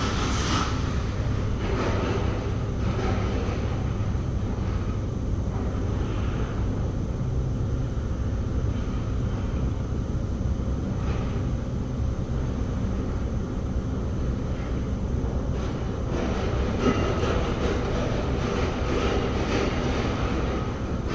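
A steady low mechanical rumble, with a few faint clinks and knocks over it.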